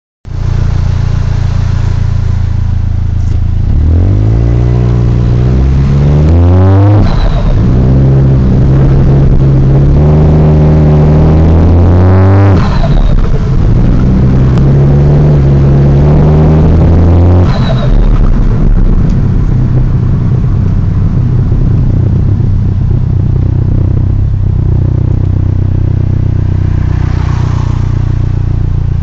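Car engine idling, then revved and held twice, dropping back to idle after each. A strange cooing, pigeon-like noise comes from the engine bay, its source unknown to the owner.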